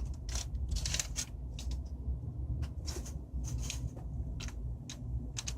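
Scattered small clicks and crinkles of a paper powder packet being snipped open with scissors and its cola powder shaken into a plastic cup of water.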